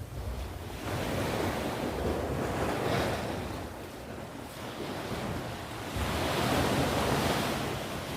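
Sea waves surging and washing in, swelling twice: from about a second in and again about six seconds in, over a low rumble of wind on the microphone.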